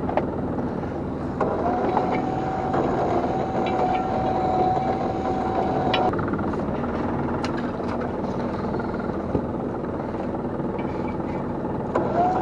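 A small fishing boat's engine and net-hauling gear run steadily while a gillnet is pulled aboard. A steady whine comes in about a second and a half in and cuts off about six seconds in, with a few light knocks.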